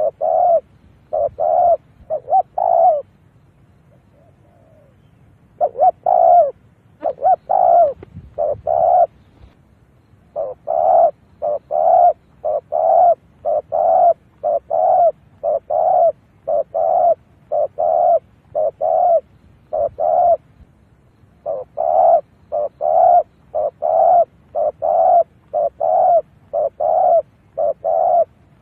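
Spotted dove cooing: a long run of short, evenly spaced coos, about one and a half a second, broken by a pause of a couple of seconds a few seconds in. This is a decoy call used to draw wild spotted doves in.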